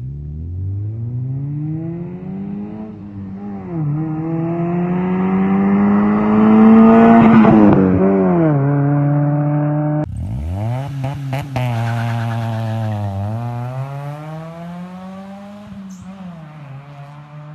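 Honda Civic EP2 Sport's engine and exhaust pulling hard under acceleration, the note climbing steadily with brief drops at gear changes about 3 and 8 seconds in. About 10 seconds in it cuts abruptly to another run of the same kind, rising again with a shift partway through.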